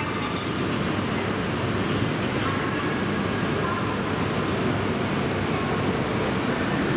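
A train running at speed, with a steady rumble and rushing heard from inside a passenger car.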